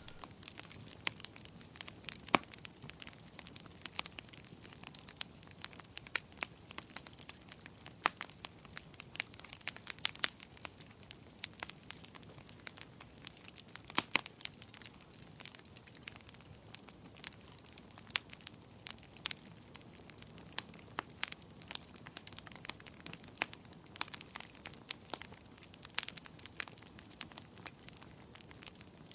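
Wood fire crackling in a fireplace: irregular sharp pops and snaps, several a second, over a faint steady hiss, with a few louder pops about a quarter and near nine-tenths of the way through.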